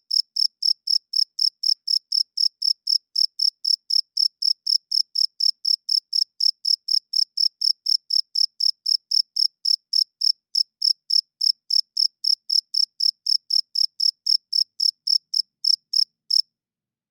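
Male cricket chirping by rubbing its wings together: a steady, even run of short high chirps, about three or four a second, that stops abruptly near the end.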